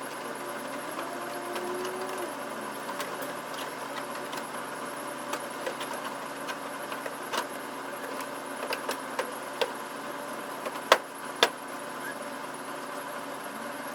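Scattered sharp clicks and knocks of a replacement car bumper being fitted, sparse at first and then more frequent. The two loudest come close together about eleven seconds in. Under them runs a steady background hum.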